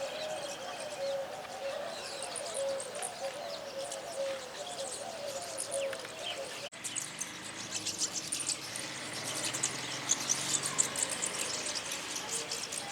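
A flock of small birds chirping and twittering in quick, high notes, with a sudden brief break a little past halfway.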